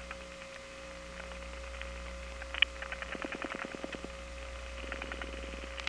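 Telephone line on a number one step-by-step exchange: a steady tone over a low hum. Two runs of rapid clicking at about ten clicks a second, typical of dial pulses stepping the switches, come in after a single sharper click a little past halfway.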